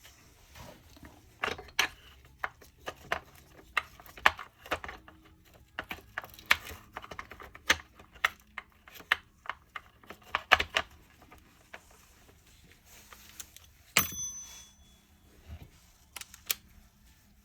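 Scattered clicks and knocks of Dyson Cinetic Big Ball cleaner head parts being handled and fitted back together, with one sharper knock and a brief ring about fourteen seconds in.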